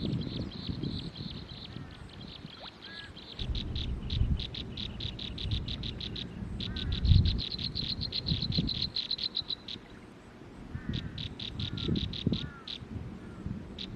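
Animal calls: trains of fast, high pulsed calls, several a second, that stop and start, with a few short chirps in between. Irregular low rumbles underneath.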